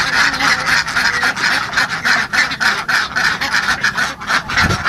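A flock of geese honking, many short calls overlapping in a constant clamour.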